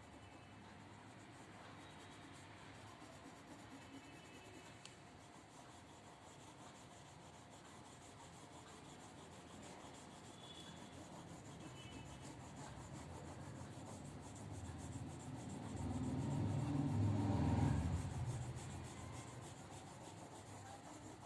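Light blue colour being shaded by hand onto a sheet of drawing paper: a soft, steady rubbing scratch, growing louder for a few seconds about two-thirds of the way through.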